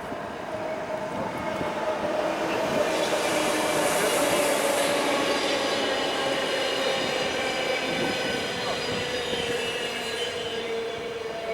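Car engine running at steady speed, its note slowly dropping in pitch, over rushing noise that grows loudest about four seconds in and then eases off.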